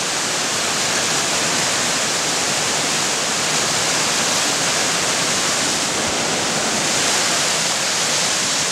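Creek rushing: a steady, even hiss of flowing water.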